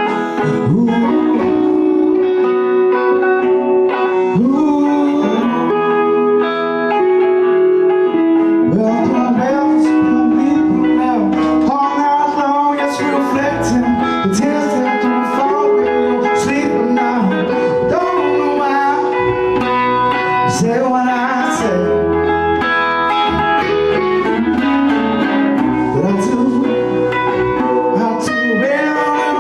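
A blues-rock band playing a song with guitars and bass, the guitar notes held and bending.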